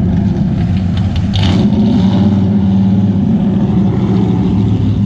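A car engine running at low revs close by, a loud steady drone, with a short hissing burst about a second and a half in.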